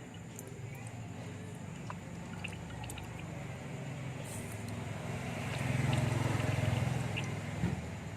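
Fish sauce trickling as it is poured into a mixing bowl, over a steady low hum that grows louder about two-thirds of the way through.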